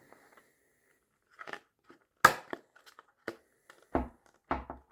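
Serrated knife blade cutting through hard plastic in short push cuts: a series of about five separate crunching snaps, the loudest a little past two seconds in.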